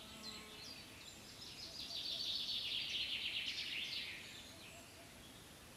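Small songbird singing: a few short chirps, then about a second in a rapid, fast-repeating trill lasting some three seconds, over a faint steady outdoor hiss.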